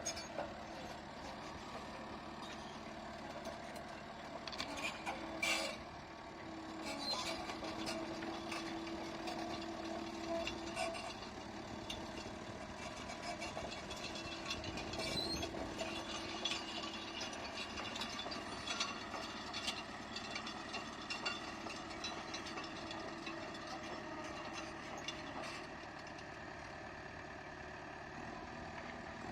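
CAT D3K LGP bulldozer's diesel engine running steadily, with a whining tone that comes and goes and scattered metallic clanks and knocks.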